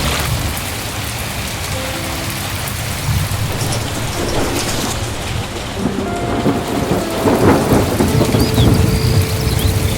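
Heavy rain pouring down with a low rumble of thunder, which swells louder near the end.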